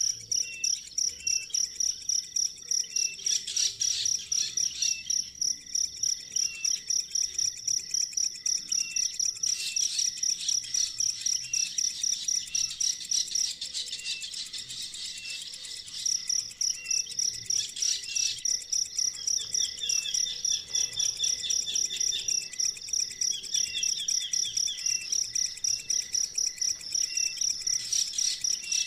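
A cricket-like insect trilling in steady high pulses, about three a second, falling silent for a couple of seconds about halfway through. Over it, short bird chirps repeat about once a second, with a brief quick run of notes about two-thirds of the way in.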